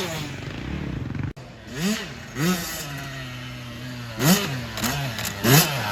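Dirt bike engines revving in quick throttle blips, each rising and falling in pitch, over a steadier engine note. There is a sudden brief dropout a little over a second in.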